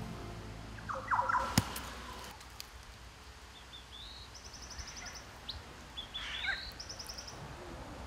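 Rainforest birds calling: a few short chirps, then two quick high trills of rapidly repeated notes about four and seven seconds in, over a faint forest background. A single sharp click about a second and a half in.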